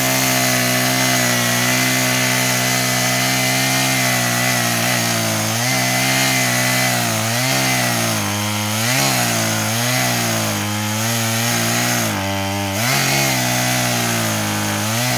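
Two-stroke chainsaw running hard while felling a tree, its engine note dipping and recovering several times as the chain bogs down in the cut.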